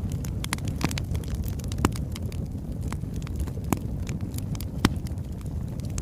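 Oak logs burning in a fireplace: a low steady rumble of flame with irregular crackles and pops, the loudest pops a little under two seconds in and near five seconds.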